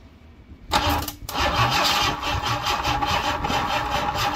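Ford 2.3 V6 engine being cranked over by its starter motor, with fuel poured into the carburettor to help it fire. The engine starts turning over suddenly about a second in, stops for a moment, then keeps cranking with a fast, even pulsing. The owner thinks the starter motor is too weak to spin the engine fast enough.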